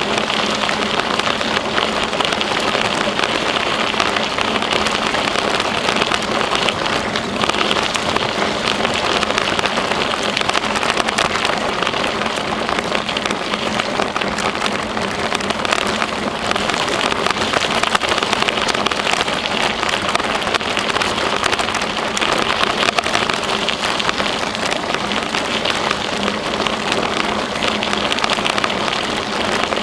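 Steady crackling rush of a bicycle rolling along a trail: tyres on the path surface and wind on the microphone, with a faint steady hum underneath.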